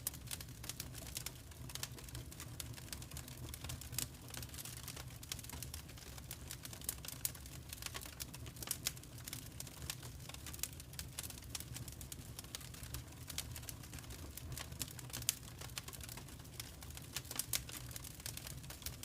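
Wood fire crackling in a fireplace: irregular snaps and pops, a few louder ones, over a steady low rumble.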